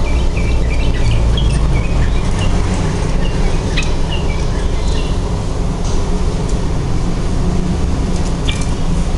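Sooty-headed bulbul (trucukan) giving short, high chirps, many in the first half and a couple more near the end, over a loud, steady low rumble.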